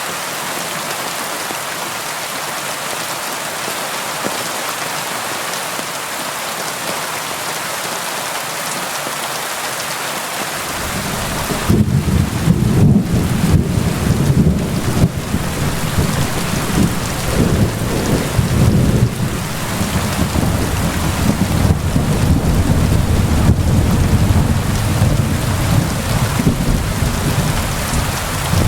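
Steady heavy rain hissing. About eleven seconds in, a long low roll of thunder starts and rumbles on, swelling and easing, through the rest.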